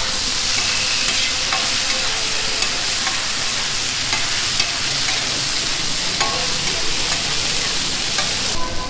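Chicken frying in hot oil on a large flat iron griddle, sizzling steadily, with a metal spatula scraping and tapping on the pan a few times. The sizzle drops off sharply just before the end.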